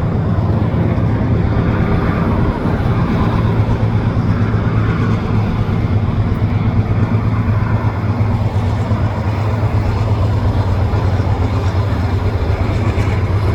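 Steady loud rumble of highway traffic mixed with a slow-moving diesel freight train, with a constant low drone from heavy diesel engines underneath.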